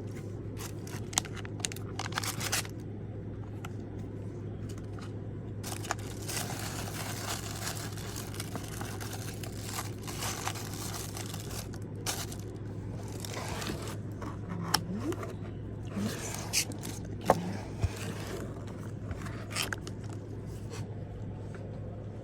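Packaging being handled and opened: rustling and scraping with scattered sharp clicks and taps, over a steady low hum.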